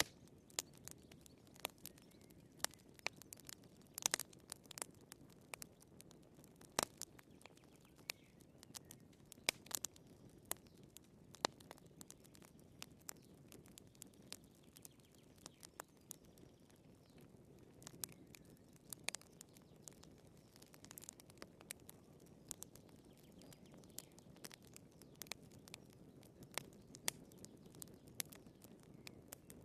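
Wood fire crackling in a fireplace: irregular sharp pops and snaps from the burning firewood, several to a second, some louder than the rest, over a soft low rumble of the flames.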